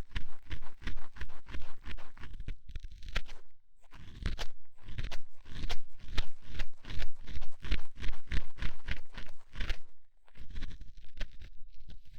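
Close-up ASMR ear cleaning: an ear-cleaning tool scraping in quick crunchy strokes, about three to four a second, with short breaks about four seconds in and again near ten seconds.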